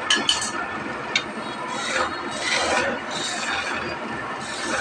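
Abrasive hand strokes across wood, repeated about every half to three-quarters of a second, after a few short clicks near the start.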